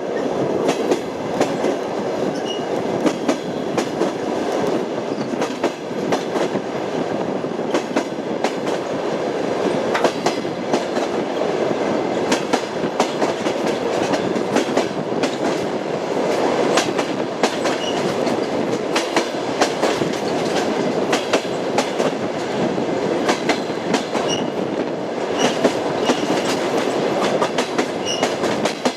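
Passenger train wheels clattering over the rail joints: a steady rolling rumble with frequent, irregular clicks, and a few faint high squeals.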